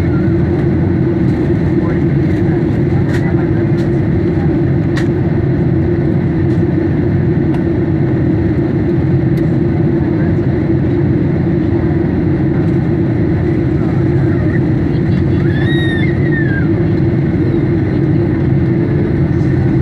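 Steady loud roar of a Boeing 737's jet engines and rushing air in flight, heard from inside the cabin. About three-quarters of the way through, a brief high wavering sound rises above it.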